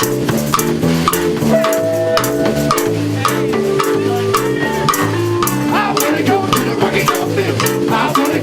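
Live band playing a song, with pitched instruments, a steady beat of drum and shaker-like hits and a singing voice.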